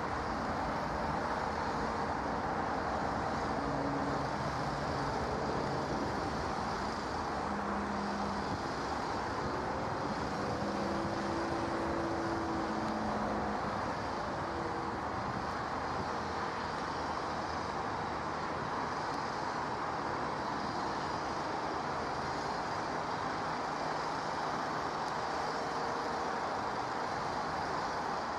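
Steady vehicle noise: a continuous engine rumble and hiss at an even level, with a few faint passing tones about halfway through.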